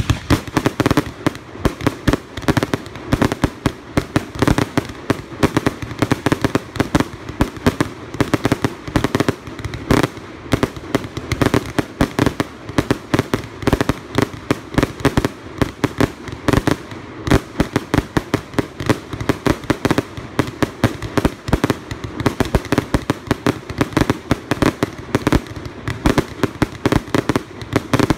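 Fireworks display: a dense, unbroken barrage of bangs and crackles, several reports a second.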